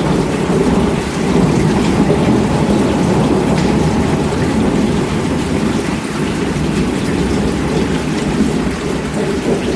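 Steady heavy rain with a continuous low rumble of thunder underneath.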